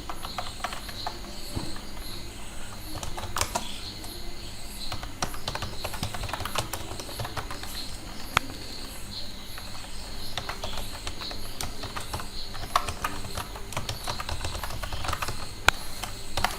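Computer keyboard typing: irregular keystrokes with a few sharper clacks, over a faint steady hiss.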